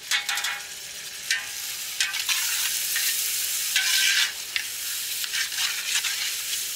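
Chopped tomatoes, onions and green chillies sizzling in hot oil and ghee in a large metal cooking pot while a ladle stirs them, scraping against the pot in several short strokes.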